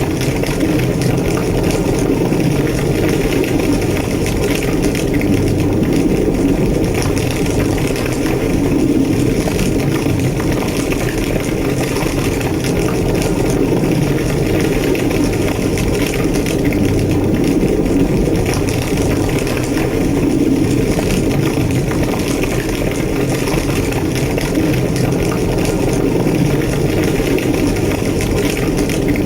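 Large fire burning steadily, a continuous low roar with fine crackling over it.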